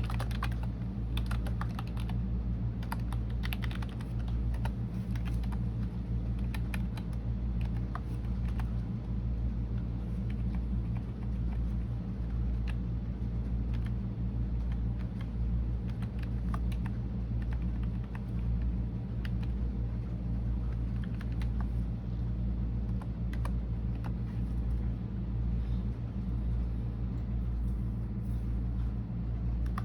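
Typing on a computer keyboard: an irregular, continuous patter of key clicks, over a steady low hum.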